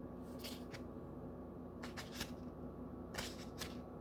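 Tarot cards being handled and shuffled: several short brushing, sliding sounds over a faint steady hum.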